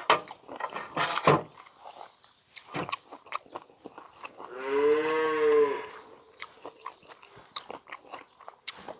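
Someone eating noodles: short clicks, slurps and chewing sounds, probably chopsticks against a bowl. Midway there is one drawn-out call lasting about a second.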